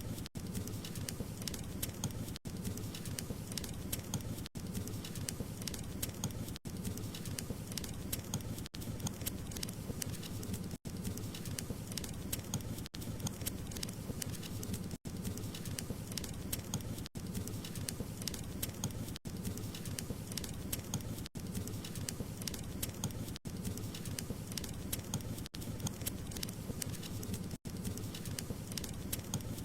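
Wood fire crackling: a steady low rush of flames with many small pops and snaps, broken by a very brief dropout about every two seconds.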